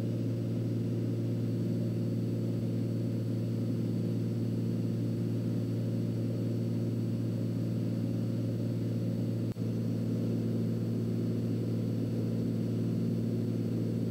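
Turbocharged Cessna 206's engine and propeller heard from the cockpit as a steady, even drone during a climb under added power, with one brief dropout about nine and a half seconds in.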